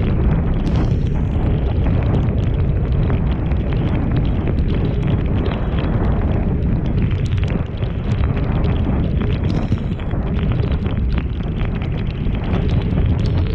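Strong storm wind buffeting the microphone: a loud, steady low rumble with many short crackles through it.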